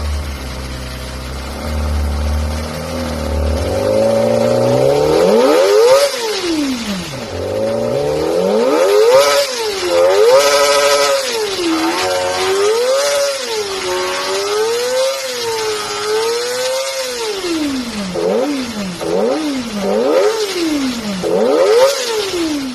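Kawasaki Ninja ZX-25R's 250 cc inline-four engine idling, then revved again and again, rising and falling in pitch, held high for a moment around the middle and finishing with a run of quick short blips.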